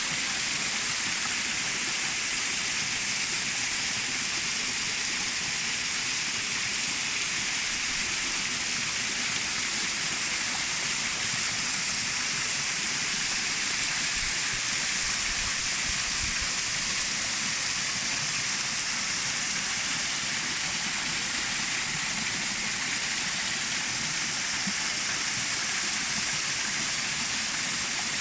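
Waterfall pouring into a pool: a steady, even rush of falling water, bright and hissy, with no change throughout.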